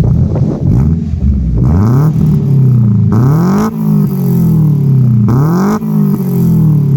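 Nissan Micra K11's four-cylinder engine revving through its reworked exhaust: the engine note climbs steeply and sinks back again about three times, loud throughout.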